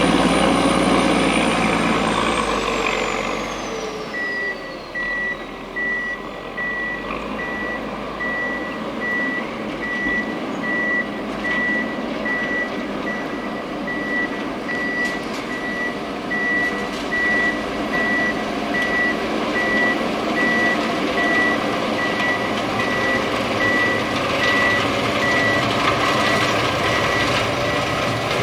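Prinoth Leitwolf snowcat's MAN diesel engine running while its reverse alarm beeps steadily, about once a second. In the first few seconds a high turbo whistle falls in pitch and fades as the engine eases off.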